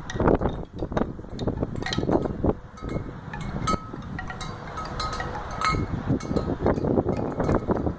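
Storm wind gusting and buffeting the microphone, with scattered light metallic chiming tones ringing at a few repeated pitches.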